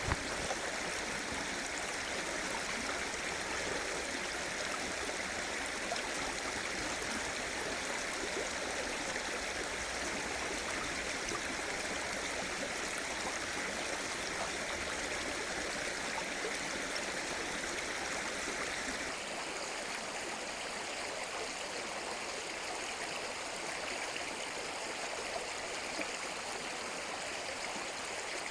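Mountain stream rushing and babbling over rocks, a steady flow of water. Its low rumble drops away about two-thirds of the way through.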